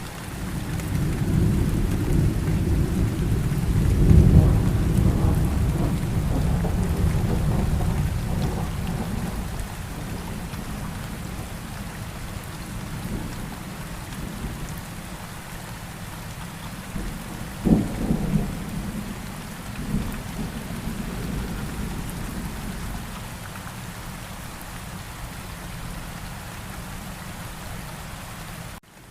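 Steady rain with thunder. A long low rumble builds, peaks about four seconds in and fades away, and a sharper thunderclap comes about two-thirds of the way through.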